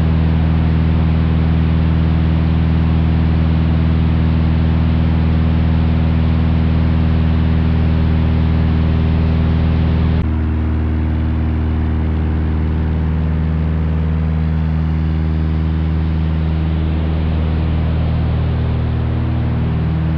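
Cessna 172's six-cylinder Continental O-300 engine and propeller running steadily in the climb-out after takeoff, heard from inside the cabin as a steady drone. About halfway through, the sound abruptly turns a little quieter and duller.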